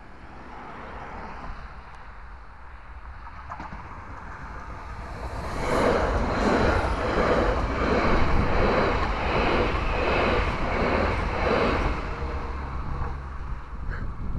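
SNCF electric multiple unit passing close by, with a loud clatter of wheels over the rails in an even rhythm of about two beats a second. It builds from a distant rumble, is at its loudest from about five seconds in, and fades near the end.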